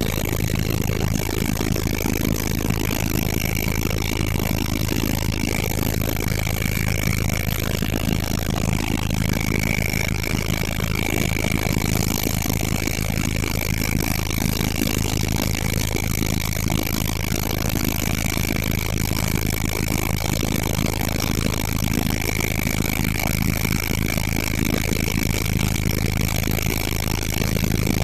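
Helicopter cabin noise in flight: a steady, loud drone of the turbine engine and rotor, with a constant high whine over it.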